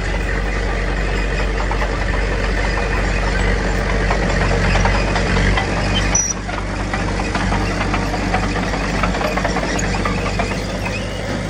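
Heavy diesel engine of earthmoving machinery running steadily, with a dense metallic clatter over it; the sound shifts briefly about six seconds in.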